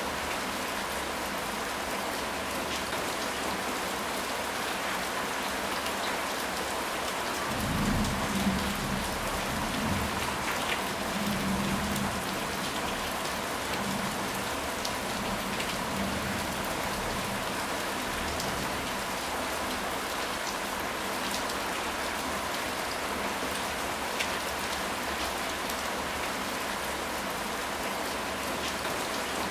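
Rain falling steadily, an even hiss with scattered drop ticks. A low rumble of thunder rolls in about eight seconds in, swells for several seconds, then fades away.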